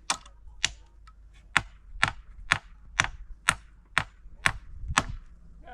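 Steady series of sharp knocks, about two a second, from something being struck over and over.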